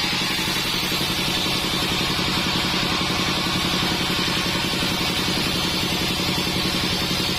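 Sawmill band saw machinery running steadily, a constant mechanical drone with a fast low pulsing.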